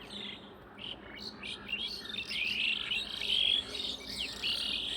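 Several birds chirping: many short, high chirps and quick down-slurred notes overlapping one another.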